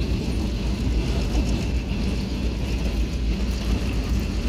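Passenger train rolling along, heard from an open-air car: a steady low rumble of the wheels and cars with wind noise, and a faint steady high whine over it.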